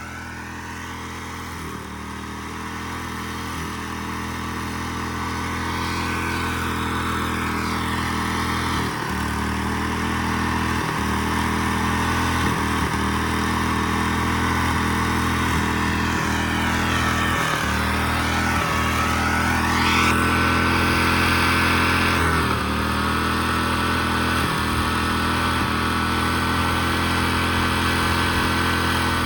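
Tractor engine running hard at full throttle, a steady drone that grows louder over the first several seconds and then holds; the engine is being pushed wide open and smoking heavily.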